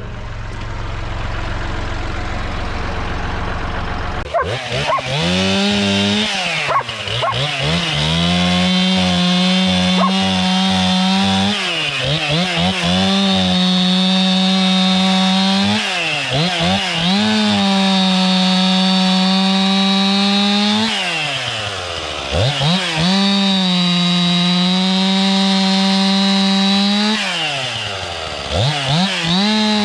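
A steady low engine rumble, then about four seconds in a Stihl MS 261 two-stroke chainsaw revs up and is held at full throttle for long stretches. It drops back toward idle and revs up again three times, as when cutting branches.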